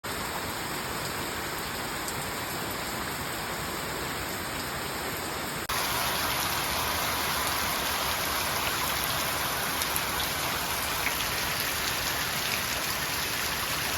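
Steady heavy rain falling, a dense even hiss of drops. About six seconds in it abruptly becomes louder and brighter.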